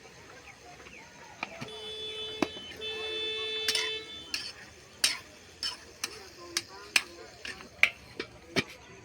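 Two steady, even-pitched tones, each about a second long, like a horn or buzzer sounding twice. They are followed by a series of about eight sharp clicks or knocks, roughly one every half second.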